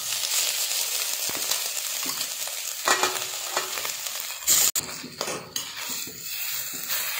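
Hot oil and masala sizzling in a steel kadhai as boiled potatoes are dropped in and stirred with a slotted steel spatula, with a few knocks and scrapes against the pan, the loudest about halfway through.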